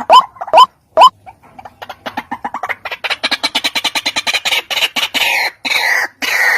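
Calls of a ruak-ruak (white-breasted waterhen), as in a lure recording. Three sharp rising calls come in the first second. After a short pause there is a fast stammering run of clipped notes that speeds up and grows harsher. From about five seconds in, longer harsh croaking calls repeat about twice a second.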